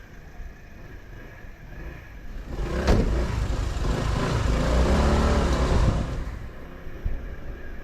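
Riding sound of a Honda 125 cc motorcycle: a low steady rumble that swells into a loud rush of engine and wind for about three seconds in the middle, opened by a sharp click.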